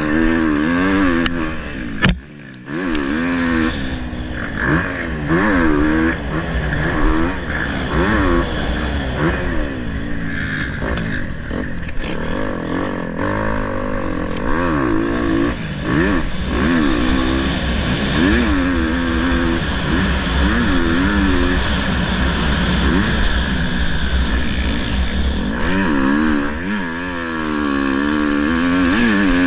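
Motocross dirt bike engines revving, the pitch climbing and falling over and over as the throttle is worked and gears are shifted, with more than one bike heard at once at times.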